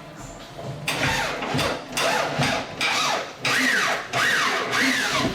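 A handheld electric power tool's motor run in about six short bursts, each one speeding up and then winding down.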